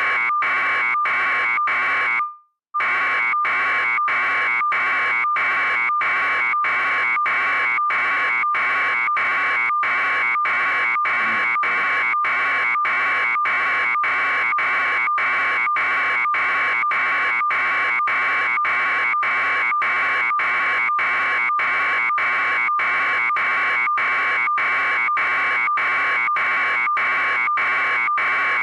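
An electronic alarm buzzer beeping rapidly and evenly, about three pulses a second, at a steady level. The beeping breaks off for about half a second a little over two seconds in, then carries on unchanged.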